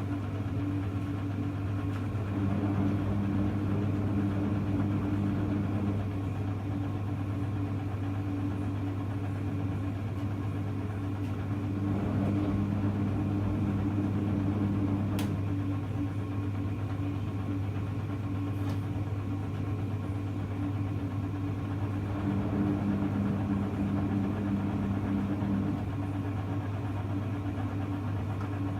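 Hoover Electra front-loading washing machine running with a steady hum. Its drum motor turns in short spells of about three to four seconds with pauses of about six seconds between, the machine's gentle wash action for permanent press and delicates. A single sharp click comes about halfway through.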